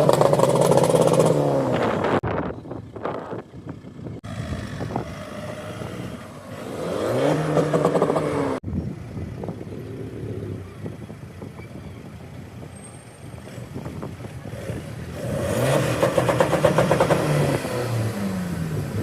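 Cars accelerating hard past the microphone one after another, engines revving up through gear changes. There are three loud passes: at the start, about halfway through, and again near the end.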